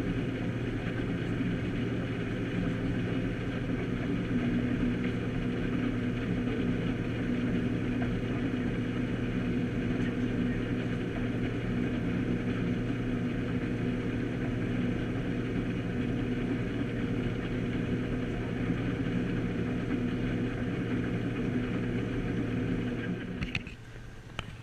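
Case IH 2166 combine harvester running steadily with an even engine drone while harvesting sunflowers; the sound cuts off sharply near the end.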